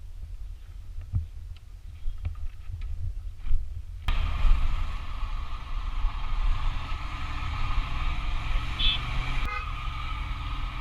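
Motorbike running on a rough mountain road: a low muffled rumble with scattered knocks for the first four seconds, then fuller, steady engine and road noise. A short horn toot sounds about nine seconds in.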